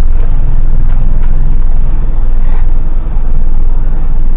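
Loaded HGV lorry's diesel engine running as the truck drives off, heard inside the cab as a loud, steady low rumble, with a few faint clicks.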